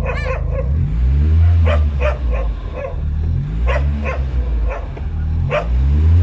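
1997 Nissan car engine being revved again and again, its note rising and falling, while a dog barks repeatedly.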